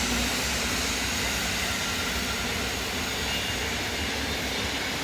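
Train running past on the tracks: a steady rolling noise of wheels on rails with a low rumble.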